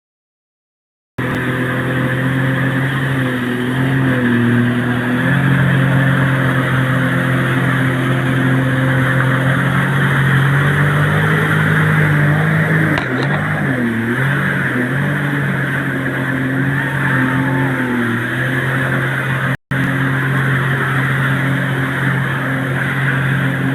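An engine running steadily, its pitch dipping and coming back up twice, with a brief cut-out in the sound near the end.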